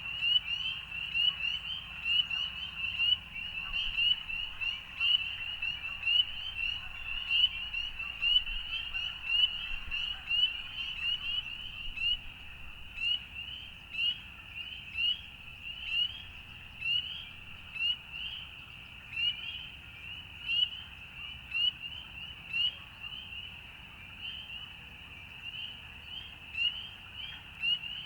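A frog chorus: a dense stream of short, high, rising peeps over a fainter, lower chorus. After about twelve seconds the loudest calls thin out to separate peeps about one a second.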